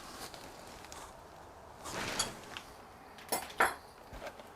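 Items being handled and taken out of a chainsaw's packaging box: a rustle about two seconds in, then a few sharp knocks and clicks past the middle.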